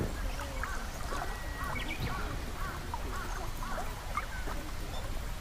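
A duck quacking in a quick run of short calls, about three a second, for a few seconds, with faint small-bird chirps and a steady low rumble in the background.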